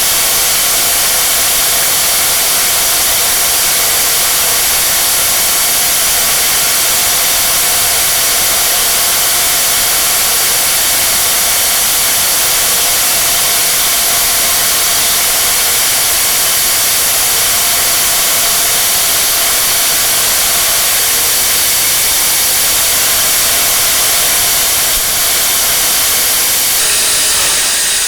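Angle grinder motor running at a steady high speed with a constant whine and hiss, driving a homemade planer-blade wood chipper through a chain reduction. There is a slight change in the sound near the end.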